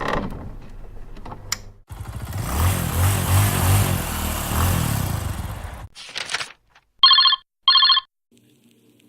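A run of separate stock sound effects: a rushing noise over a low rumble for about four seconds, a short burst, then two loud, short electronic rings, about half a second apart.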